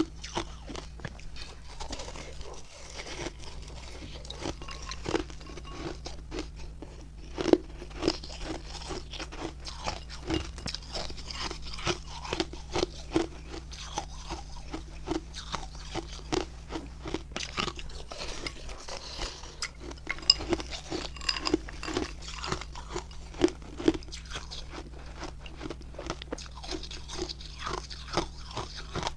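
Close-miked chewing of refrozen ice made with milk and matcha powder: a continuous run of crisp crunches as the ice is bitten and ground between the teeth.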